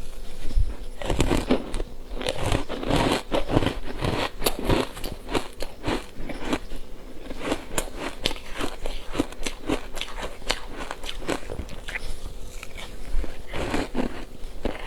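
Ice being bitten and crunched in the mouth close to the microphone: a dense, continuous run of crisp cracks and crunches.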